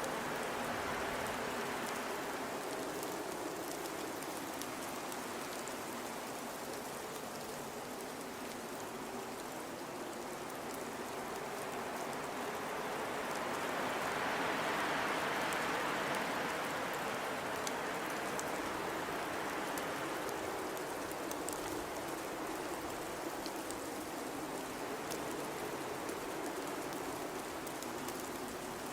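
Blizzard wind blowing steadily, building into a stronger gust about halfway through and easing off again, with faint scattered ticks over the top.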